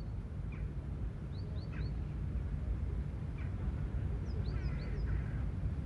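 Small birds chirping in quick runs of about three short high notes, twice, over a steady low hum.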